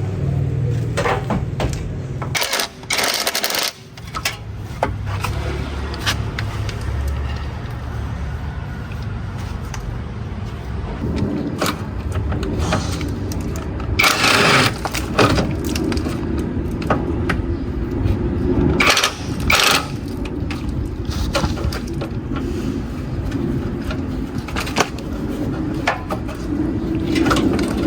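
Repeated knocks and clatters, with louder bursts of clattering about halfway through and again a few seconds later, over a steady low hum.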